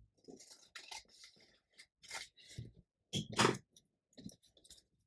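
Paper being trimmed and handled: a scattered series of short cutting, crunching and rustling sounds, the loudest a little past three seconds in.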